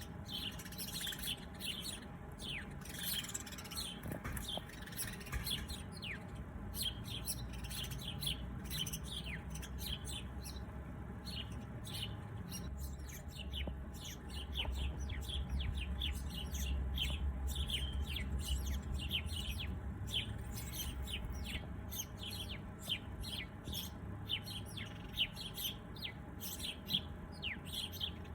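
Many small birds chirping together, a dense run of short, quick downward-sweeping notes overlapping one another. A low rumble sits beneath them in the middle stretch.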